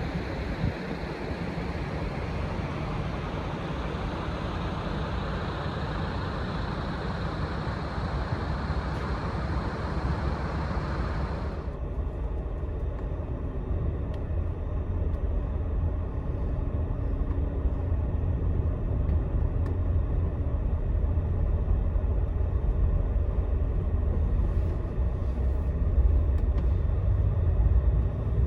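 Scania Astromega double-decker coach driving on the expressway: a steady low rumble with road and wind hiss. About twelve seconds in, the hiss cuts off abruptly and mostly the low rumble is left.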